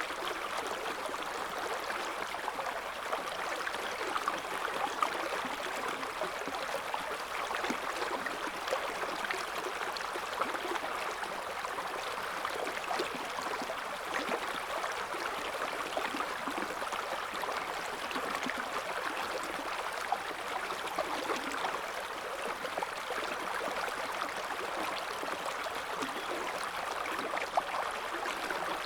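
River water flowing over stones, a steady babbling with many small splashes and gurgles.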